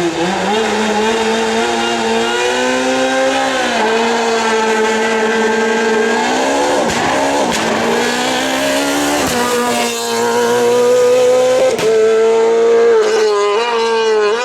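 Rally car engine running hard at high revs, its pitch climbing and dropping several times with a deep fall near the middle, and the revs wavering quickly up and down near the end.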